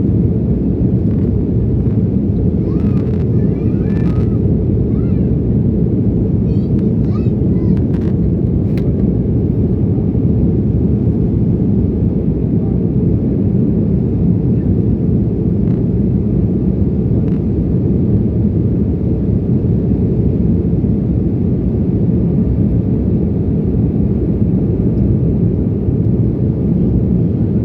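Steady, deep cabin noise of an airliner in flight, the engines and rushing air heard from inside the passenger cabin. Faint voices and small clicks come through briefly a few seconds in.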